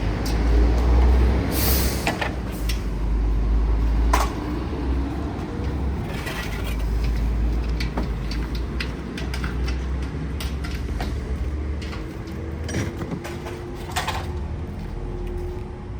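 A steady low rumble with knocks and clicks scattered through it; the rumble is heaviest in the first four seconds.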